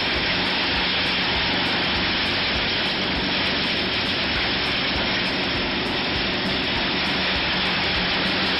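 Heavy forestry machinery running steadily: a dense, even noise with a low engine hum underneath.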